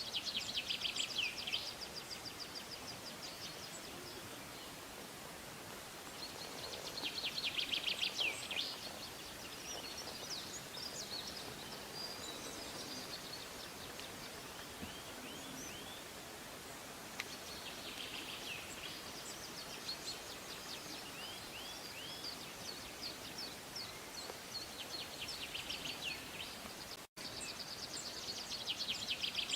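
Songbirds singing: high, rapid trilled phrases that come again every few seconds, over a steady outdoor hiss. The sound drops out for a moment near the end.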